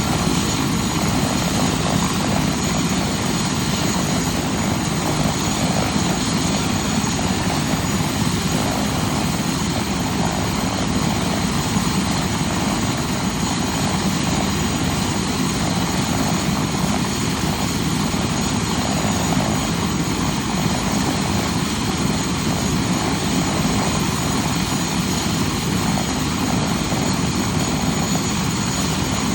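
UH-72 Lakota helicopter running steadily, its twin turboshaft engines giving a constant high turbine whine over the rotor noise.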